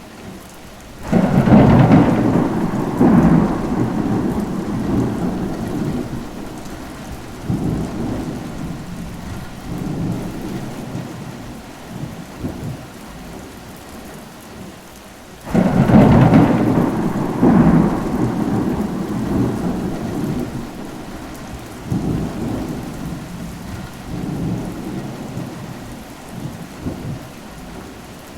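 Steady rain with two rolls of thunder, one starting about a second in and one about halfway through. Each opens with a loud low crack and rumbles on with a few further swells, fading over several seconds.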